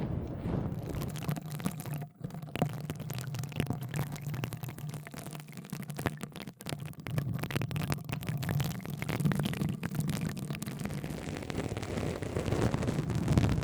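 Close-miked ASMR trigger sounds: a dense run of crackles and light taps over a steady low rumble, with two brief gaps.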